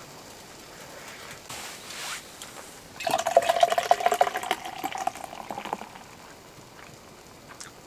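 Liquid being poured for about three seconds, starting about three seconds in, with rapid crackling over it.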